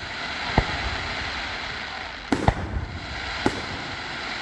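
Fireworks display: four sharp bangs of bursting shells, two of them close together past the middle, over a steady hiss.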